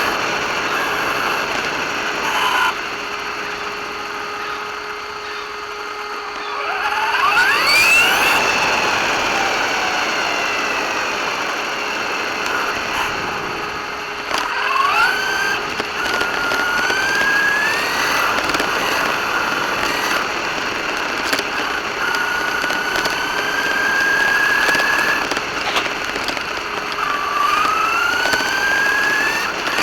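RC car's motor whining and rising in pitch as it speeds up, several times over, with a long upward sweep early on and shorter rising whines later, over a steady hiss.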